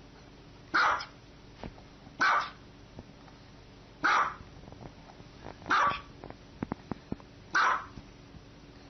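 A dog barking single barks at a steady pace, five times, about every one and a half to two seconds.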